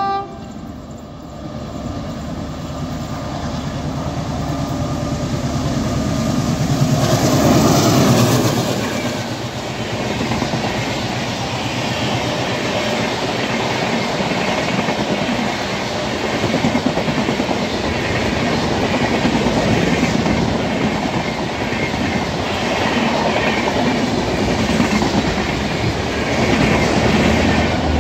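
Passenger express of LHB coaches running through the station at speed. The rumble builds to its loudest about seven to eight seconds in as the front of the train passes, then settles into the steady clickety-clack of coach wheels over the rails.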